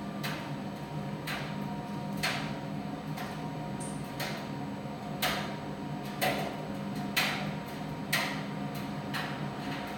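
Primus tumble dryer running with a steady hum, and a sharp knock about once a second as the drum turns.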